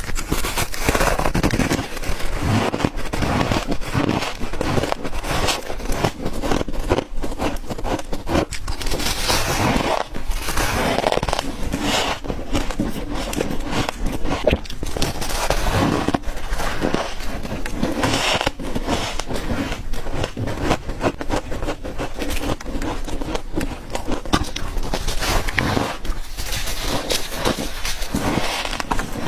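Ice being bitten and crunched between teeth: a dense, continuous run of sharp cracks and crunches.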